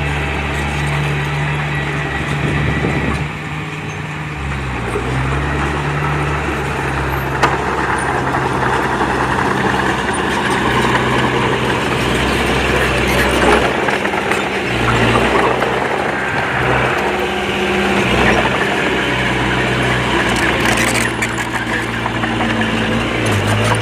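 Komatsu D20P small bulldozer's diesel engine running under working load, its note stepping up and down every few seconds as the load changes, with a sharp metallic click about seven seconds in.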